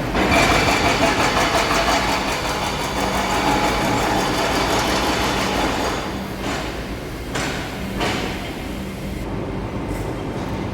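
MTR Light Rail train on route 705 running, heard from on board: a steady low hum under wheel-and-rail noise that is loudest for the first six seconds, then a few sharp knocks as the noise eases.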